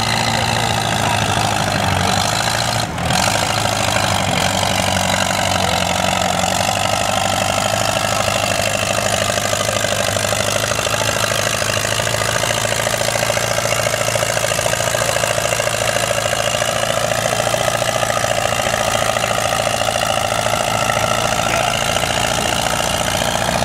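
Allis-Chalmers B tractor's four-cylinder engine running hard under heavy load as it drags a pulling sled. There is a brief dip in level about three seconds in; later the pitch sags gently and then climbs back up near the end.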